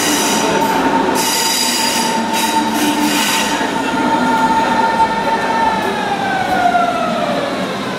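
Train running, with high metallic wheel squeals in the first few seconds over a steady rumble and a steady whine that falls in pitch over the last two seconds or so as the train slows.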